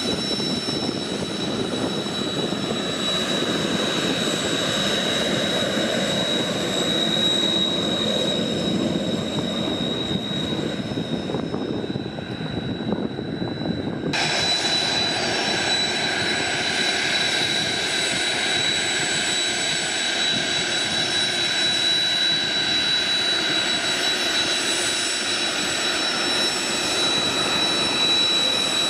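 Kawasaki T-4 jet trainer's twin turbofan engines running, a steady high whine over a broad rumble. About halfway through the sound changes abruptly, with the upper whine coming back in sharply.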